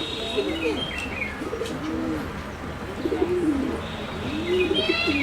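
Birds calling: short, repeated low coos, like those of pigeons or doves, mixed with higher chirps.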